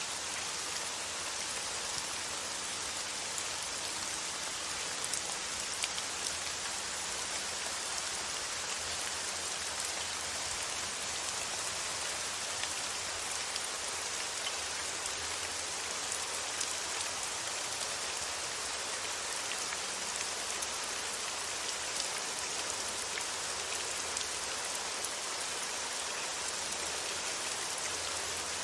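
Steady rain falling, an even hiss with scattered small drop patters.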